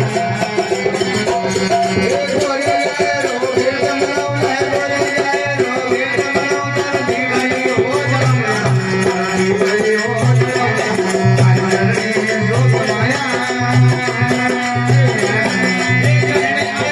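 Marwari folk devotional bhajan music: a pitched melody over a steady, repeating drum beat and quick, light percussion ticks.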